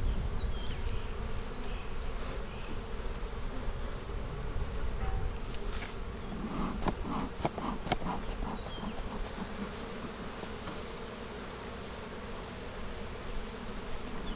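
Honey bees buzzing steadily around an open hive, with a cluster of light clicks and knocks about six to eight seconds in.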